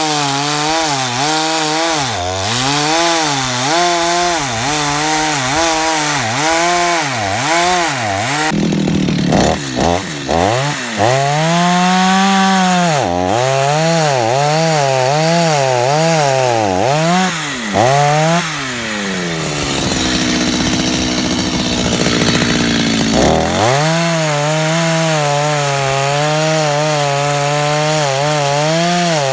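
Chainsaw cutting into a log, the engine pitch dipping and rising about once a second as the chain bites into the wood. About eighteen seconds in, the engine falls back to a lower, steadier speed for a few seconds. It then revs up again and runs steadily at high speed.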